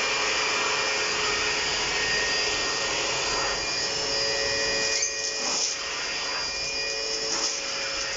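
A drum-type canister vacuum cleaner's motor running with a steady whine on test, working again now that its loose wire has been reconnected. About five seconds in the pitch and level shift a little, and a few short knocks follow.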